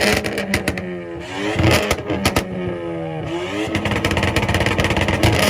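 Ford Fiesta engine revved hard against a two-step launch limiter, its pitch sweeping up and falling back about twice, with rapid sharp cracks and pops from the exhaust throughout.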